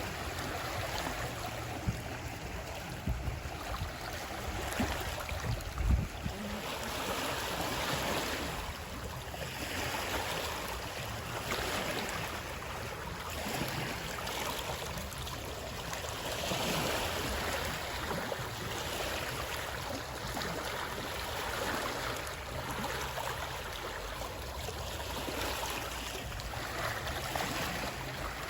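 Moving water, a steady rush that swells and eases every few seconds like water washing in and out. A few soft low thumps come in the first several seconds, the loudest about six seconds in.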